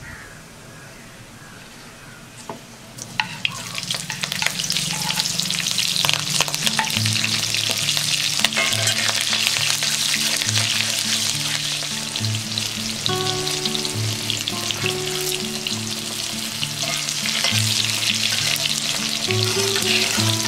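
Hot oil sizzling in a black iron kadai as green chillies and curry leaves fry with dried red chillies, a metal spatula stirring and clicking against the pan. The sizzle is gentle at first and turns loud about three seconds in, as the fresh chillies go into the oil.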